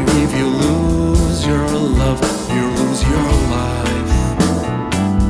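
Prog rock band music: drums and bass keep a steady beat while a wavering lead melody line plays over them.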